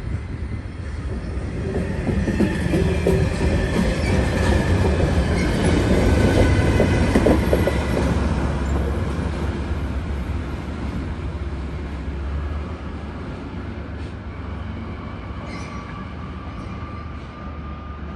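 A train running past on the station tracks: the rumble builds to a peak about six or seven seconds in and then slowly fades, with clattering of the wheels over the rails and a high wheel squeal.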